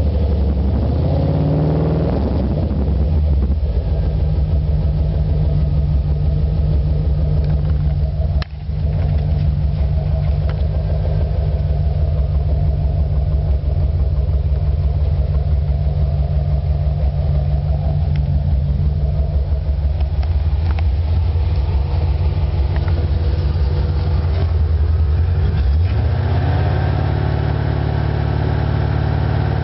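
1986 Corvette's V8 running through a high-performance exhaust. It drops from a rev to a steady, even idle at the start, then revs up again near the end.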